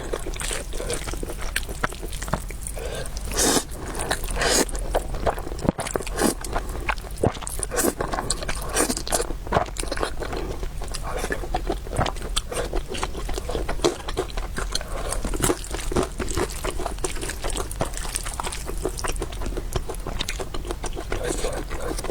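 Close-miked eating: chewing and crunching food, with scrapes and a dense run of short clicks and smacks.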